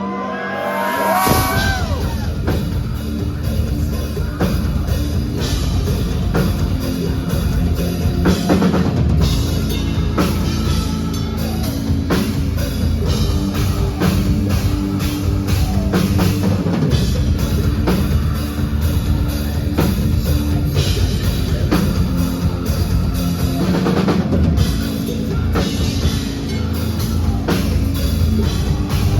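Heavy metal band playing loud, with a pounding drum kit and bass drum under distorted guitars. A sliding pitched sound comes about a second in, then the full band runs on at a steady beat.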